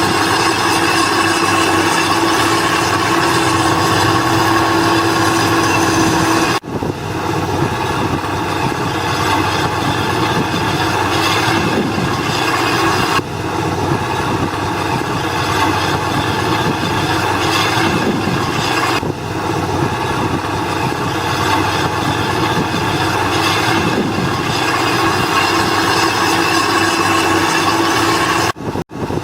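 Diesel engines of heavy construction machinery running steadily. The sound shifts abruptly three times and drops out briefly near the end.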